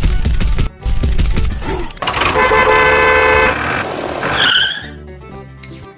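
A vehicle horn honks once, held for about a second, after a loud low rumble. A short squeaky chirp follows.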